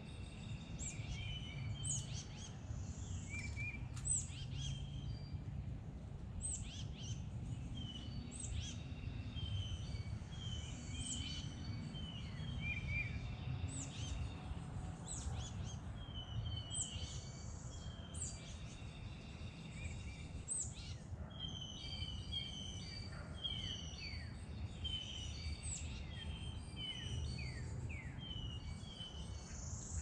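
Several songbirds chirping and calling throughout, many short high chirps and brief whistles overlapping, over a steady low background rumble.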